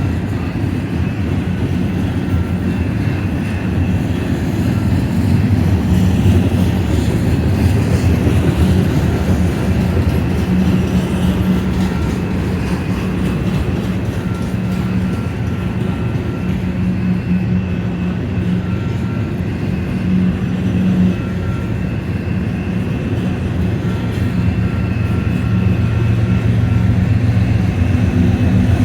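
Union Pacific freight train passing: a steady rumble of rolling cars with a low drone, which grows louder near the end as a diesel engine gets closer.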